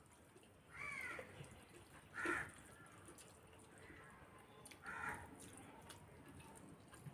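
A crow cawing three times, faintly, with short harsh calls spaced a second or two apart.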